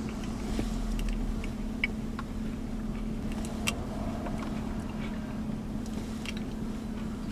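Steady low hum of a parked truck's engine idling, heard inside the cab, with a deeper rumble for the first few seconds. A few faint clicks of a plastic spoon against a cup of banana pudding being eaten.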